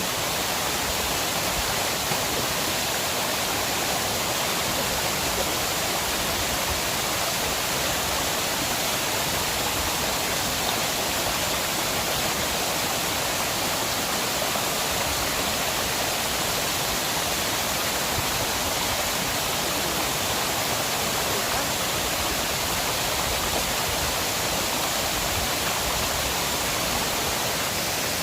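River water rushing, a steady unbroken rush with no change.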